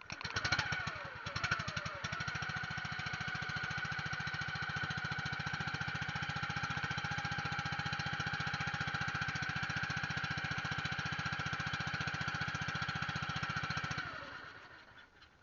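Boat engine running with a fast, even pulsing. It comes in with a couple of surges in the first two seconds, then runs steadily, and dies away near the end.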